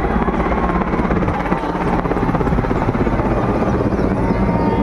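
Helicopter flying over at an air display, its rotor beating in a fast, steady chop, with a faint falling whine near the end.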